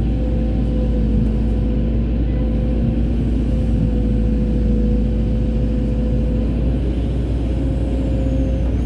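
Hydraulic excavator's diesel engine running steadily under load, with a deep rumble and a steady whine over it that drops out near the end.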